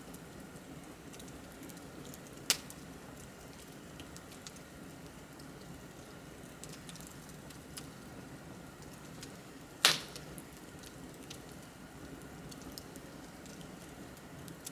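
Bonfire crackling: a steady low rustle of flame with scattered small ticks, and two sharp pops, one about two and a half seconds in and a louder one near ten seconds.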